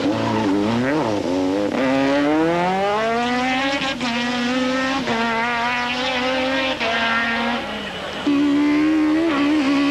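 Rally car engine revving hard as the car accelerates, its pitch climbing steeply and then holding high, with brief drops at each gearshift. A louder, steadier engine note takes over near the end.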